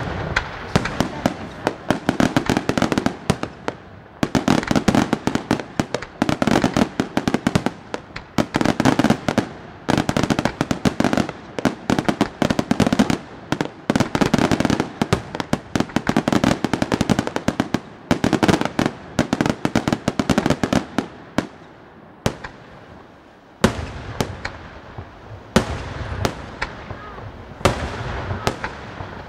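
Bruscella aerial fireworks: a dense barrage of shell bursts and crackling, one report hard on another. About four fifths of the way through the barrage eases off briefly, then sharp single reports start again.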